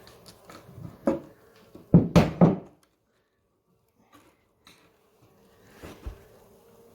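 Knocks and thumps from cut sections of wooden floorboard being lifted and handled: one sharp knock about a second in, a quick run of three loud thumps around two seconds in, and a couple more knocks near the end.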